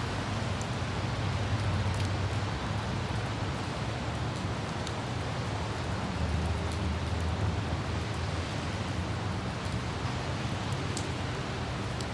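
Light rain and wind with a low, steady road and engine rumble from a car driving through city traffic, faint raindrops ticking now and then.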